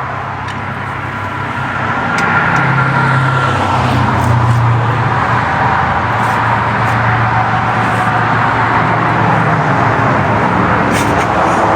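A motor runs steadily with a low hum, growing louder about two seconds in and then holding level.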